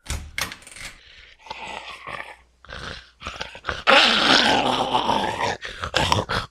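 Zombie growling and snarling through a scuffle of sharp knocks and thumps, loudest from about four seconds in.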